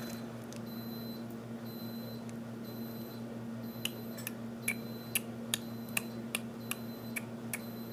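Chewing of a Galaxy caramel chocolate bar close to the microphone. Sharp smacking clicks come about two or three a second from about four seconds in, over a steady low hum.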